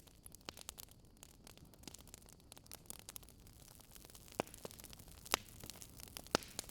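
Wood fire crackling: a steady low hiss with irregular sharp snaps, and three louder pops near the end.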